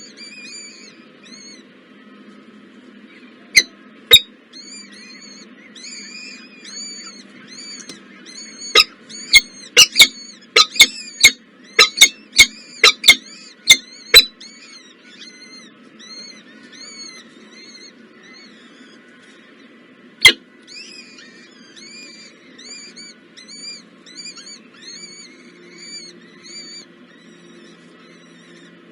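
A small bird chirping steadily, a high arched cheep about twice a second. A few seconds in and through the middle come a series of sharp, loud clicks, a dozen in close succession, and one more later on.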